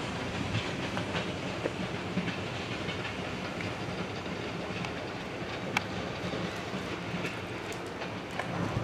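Train rolling past on the rails: a steady low rumble with scattered sharp clicks of wheels over the track.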